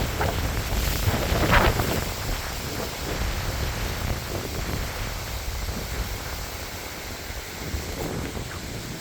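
Hurricane wind buffeting the microphone: a rumbling rush of noise, stronger for the first couple of seconds and then easing slightly.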